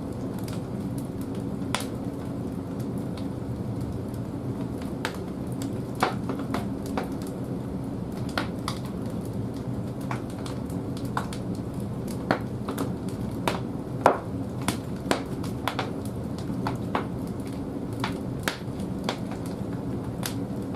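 Large logs burning in the firebox of a wood-fired boiler: a steady low rumble of the fire with frequent irregular sharp crackles and pops, one louder pop about two-thirds of the way through.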